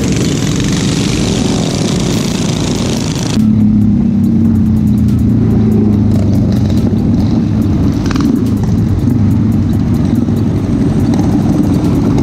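Motorbike engine running while riding, with heavy wind rush on the microphone; about three seconds in the sound changes abruptly to a steadier, lower engine drone with little wind.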